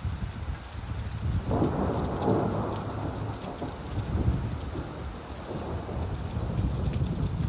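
Steady rainfall with a low rumble of thunder rolling underneath, swelling about a second and a half in and slowly dying away.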